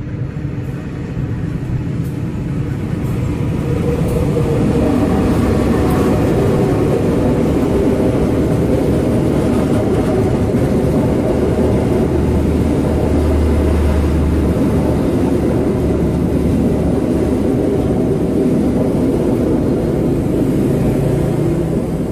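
Passenger train passing over a level crossing: the rumble of wheels on the rails builds over the first few seconds, holds steady while the coaches go by, and eases near the end.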